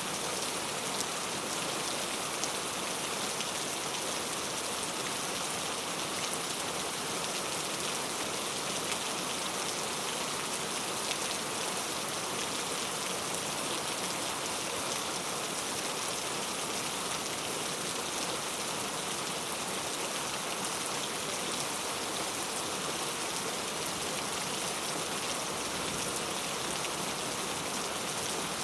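Heavy rain falling steadily, a dense even hiss of drops hitting hard surfaces.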